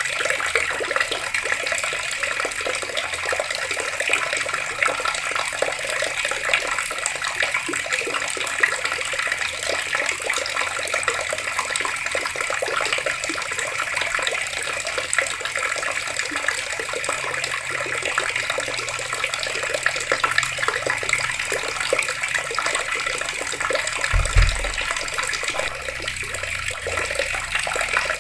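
Water running steadily from open taps and splashing down, an even, unbroken hiss. A brief low thump sounds near the end.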